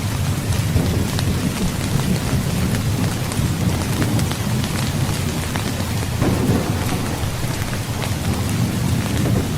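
Heavy rain falling steadily, with a continuous low rumble of thunder beneath it that swells about six seconds in.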